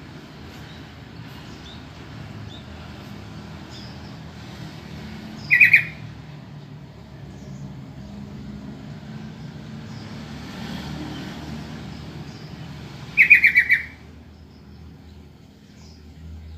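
Sooty-headed bulbul calling: two short bursts of quick, chattering notes, a brief one about a third of the way in and a longer one of about five notes further on, over a steady low background rumble.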